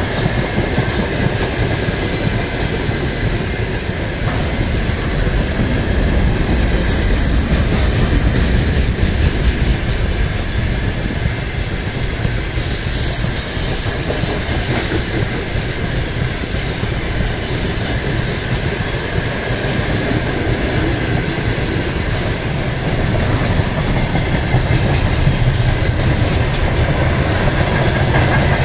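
A freight train's open gondola wagons rolling past close by, a steady, loud rumble of wheels on the rails.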